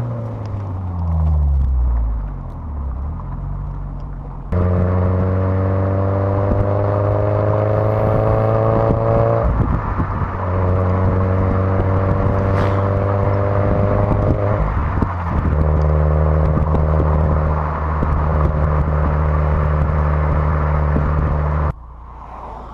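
Toyota 86/Subaru BRZ 2.0-litre flat-four boxer engine through decatted headers and a decatted aftermarket cat-back exhaust. After a falling rev at the start and a quieter stretch, it runs loud at fairly steady revs from about 4.5 seconds in. The note breaks off briefly near 10 and 15 seconds and resumes a little lower each time, then stops abruptly near the end.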